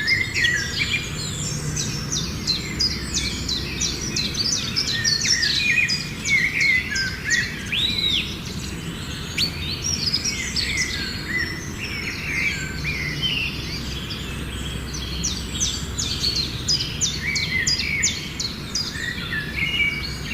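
Several birds chirping and singing at once, a dense run of short, quick notes and little whistled glides, over a steady low background rumble.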